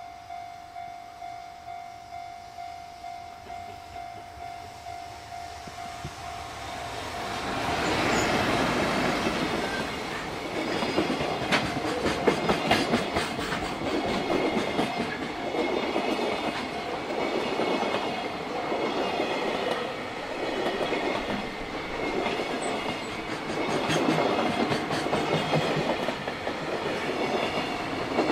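A level-crossing warning bell rings in a steady pulsing beat, about one and a half strikes a second. About seven seconds in, an electric freight locomotive arrives and a long train of container wagons rolls past, its wheels clattering rhythmically over the rail joints.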